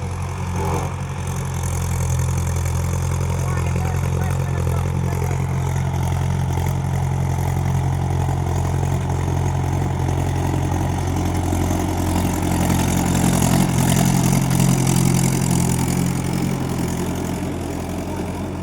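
Tractor diesel engine running steadily at a low idle-like pace, growing somewhat louder for a few seconds past the middle and then easing back.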